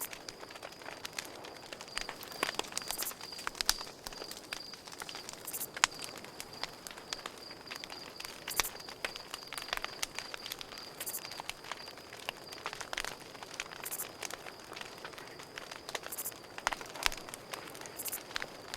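Campfire crackling, with irregular sharp snaps and pops from the burning wood, over a steady high-pitched pulsing chirp of crickets.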